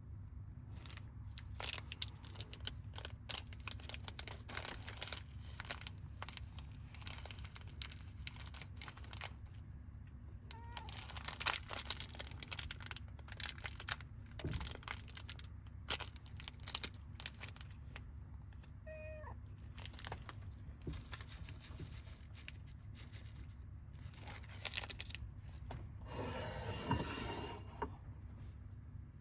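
Rustling and clicking of things being handled, over a steady low hum. A cat meows briefly about two-thirds of the way through.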